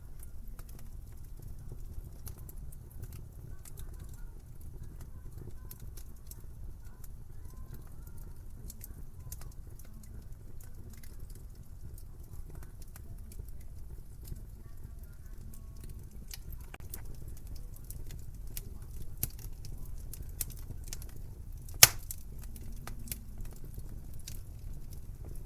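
Wood fire in a fireplace crackling, a steady low rumble of flames under scattered small pops and snaps, with one loud sharp pop near the end.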